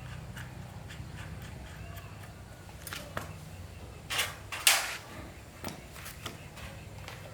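Low steady hum with scattered light clicks and two louder sharp knocks a little after the middle.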